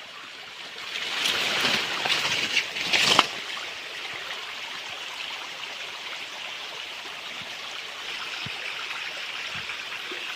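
Small stream trickling and running steadily over stones. Between about one and three seconds in, a louder noisy stretch with a few sharp clicks rises over the water.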